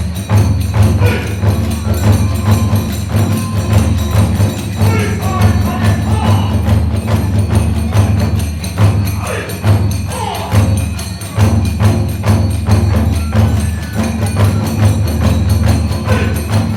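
Kagura hayashi ensemble playing: a big ōdaiko drum and small kodaiko drums beating a fast, steady rhythm with clashing tebyōshi hand cymbals and a fue bamboo flute over them.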